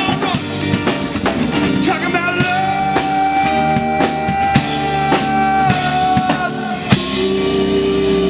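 Rock band playing, with drum kit, bass and guitar. A long note is held for about four seconds over steady drum hits. A loud hit about seven seconds in is followed by a new, lower held note.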